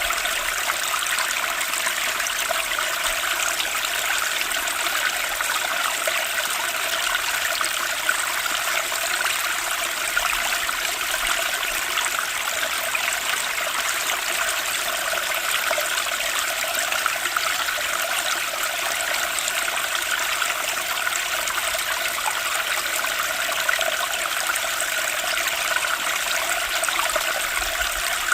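Water flowing steadily, a continuous trickling and rushing like a stream, with no change in level.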